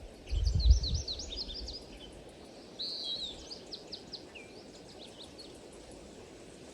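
Small birds chirping and twittering in quick, high, sweeping notes, busiest in the first half, over a steady faint background hiss. A brief low rumble comes about half a second in.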